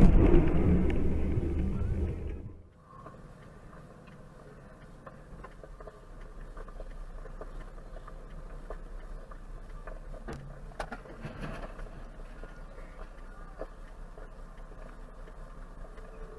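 Steady low car driving noise as heard from inside a car by a dashcam, with a few faint knocks. It follows a loud rumble that cuts off abruptly about two and a half seconds in.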